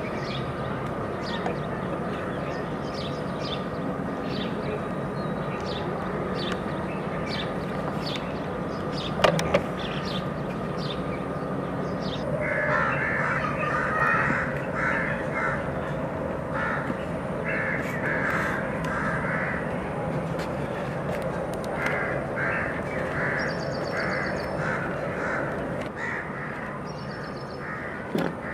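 Repeated harsh bird calls in quick groups over a steady background hiss, starting about twelve seconds in. There is a sharp knock about nine seconds in and another near the end.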